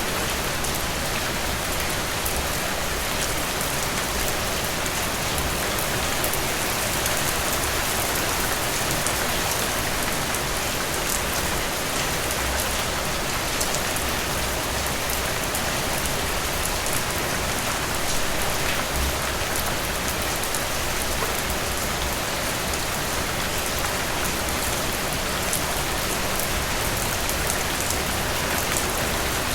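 Heavy rain falling steadily, a constant hiss with scattered individual drops pattering on surfaces.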